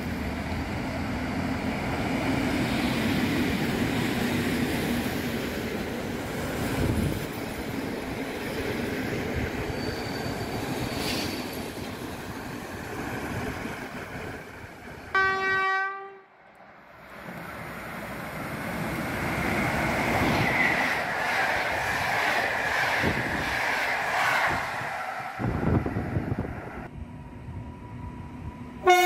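Electric passenger trains running through stations: steady wheel and rail rumble as a locomotive-hauled train and its coaches pass, with a short horn blast about halfway through. A second short horn blast sounds at the very end as an electric multiple unit approaches.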